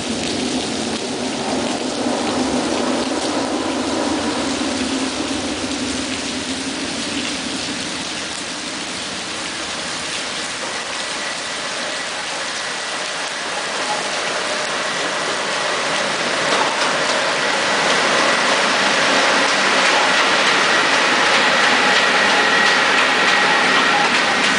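Steady rain, with an approaching train growing louder through the second half, a thin steady high whine rising out of the noise.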